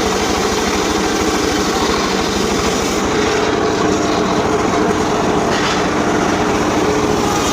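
An engine running steadily at a constant speed, with a rapid low pulse.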